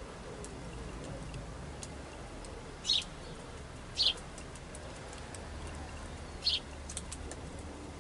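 Small birds giving three short, high chirps, about three and four seconds in and again at six and a half seconds, over a faint steady background.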